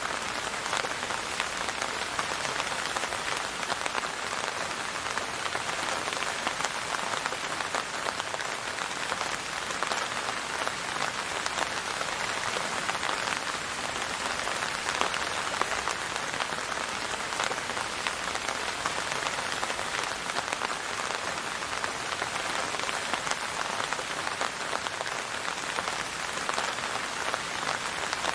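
Steady rain falling and pattering on a surface, a dense even hiss with fine drop impacts.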